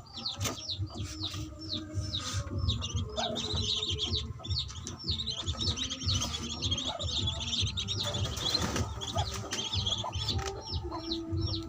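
Newly hatched ducklings peeping continuously: short, high calls that slide down in pitch, about three a second, with a low rumble underneath.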